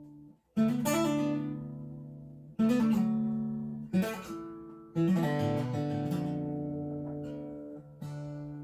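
Acoustic guitar strummed in single chords, each left to ring and fade before the next. There are five strums a second or more apart, after a short pause near the start.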